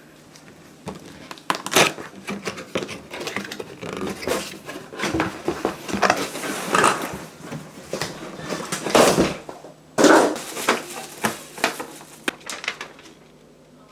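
Packaging of a new steam iron being torn open and handled: cardboard and plastic rustling and crinkling, with scattered knocks and the loudest bursts about nine and ten seconds in.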